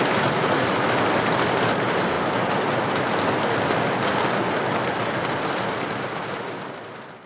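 Steady heavy rain striking a hard surface: a dense hiss of countless individual drop hits. It fades out over the last second or so.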